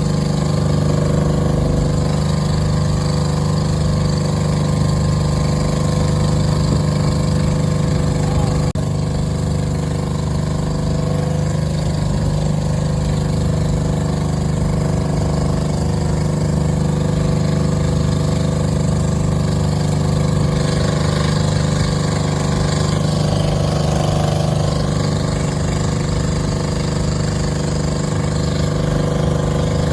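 Boat engine running steadily at an even, unchanging pitch.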